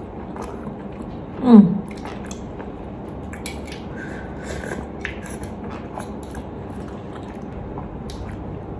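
Close-miked eating of grilled shellfish from the shell: chewing and slurping with many small wet mouth clicks. About a second and a half in comes a short, loud hum that falls in pitch.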